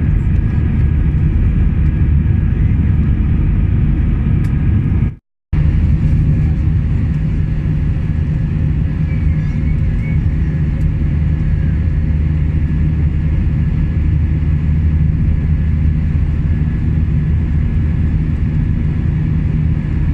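Steady cabin noise inside an Airbus A320 airliner: a low, even rumble of engines and airflow. It cuts out completely for a fraction of a second about five seconds in, then resumes unchanged.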